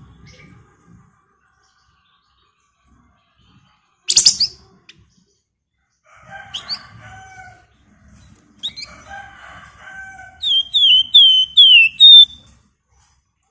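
Flamboyan (wergan Jawa) songbird singing: a sharp chirp about four seconds in, soft chattering notes from about six seconds, then a loud run of five quick, falling whistled notes.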